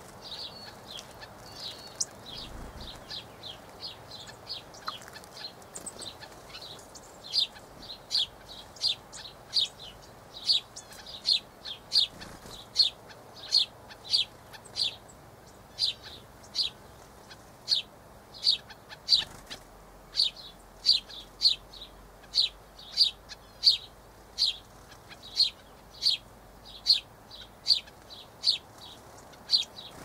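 A small bird calling a short, high note over and over at a steady pace, about one and a half calls a second, louder from about seven seconds in; quicker, fainter calls come before that.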